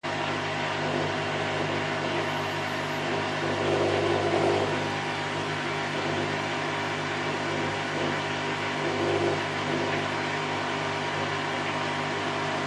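Candy Grand O' F106 washing machine on its spin cycle at 1000 rpm: a steady motor hum with several constant tones under a rushing whoosh from the drum. The sound swells slightly a couple of times.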